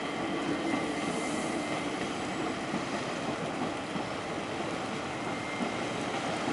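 Double-deck passenger train running past a level crossing, with a steady, even rolling noise of its wheels on the rails.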